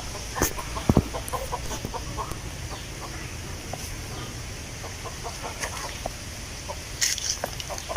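Chickens clucking in short, repeated notes over steady outdoor ambience of wind rustling leaves with a high, even hiss. There are a few sharp clicks or snaps about half a second in, at one second, and again near the end.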